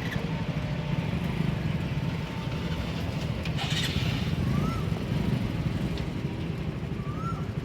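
Steady low vehicle rumble, with two short high chirps, one about halfway through and one near the end.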